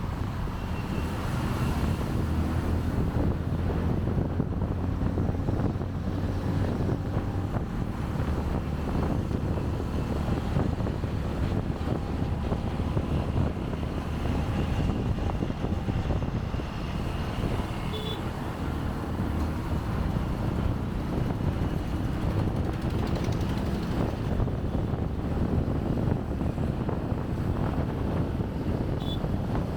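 Motorbike engine running steadily under way through city traffic, with wind buffeting the microphone.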